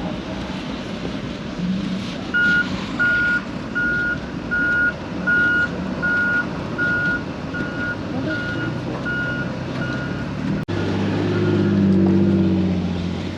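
A reversing beeper sounds about twice a second, each beep one steady high tone, starting a couple of seconds in and fading away over about eight seconds, over a steady rumble of vehicle and road noise. After a brief dropout near the end, a low drone swells up.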